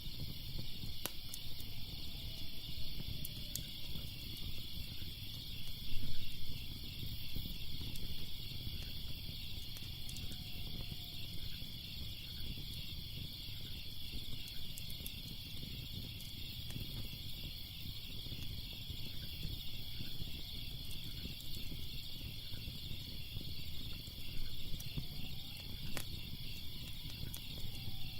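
Fire crackling with scattered sharp pops, a louder flare of crackles about six seconds in, over a steady chorus of crickets trilling.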